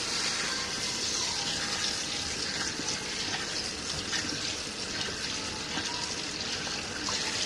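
Water spraying steadily from a tap sprayer into a small RV washing machine's tub, rinsing the soapy load with cold water.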